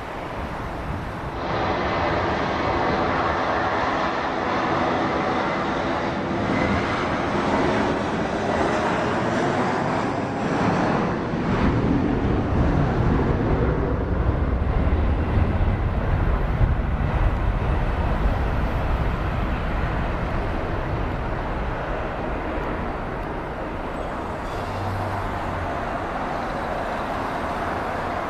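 Jet airliner's engines passing, a whining hum with steady engine tones that builds into a deep rumble in the middle, then slowly fades.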